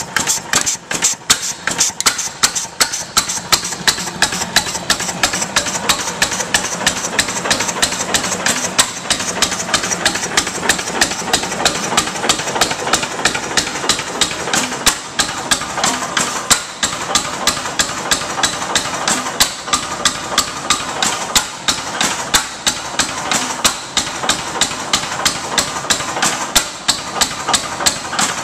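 6 1/2 HP Ruston Hornsby hit-and-miss gas engine running, a steady rhythm of sharp clicks and knocks repeating evenly throughout.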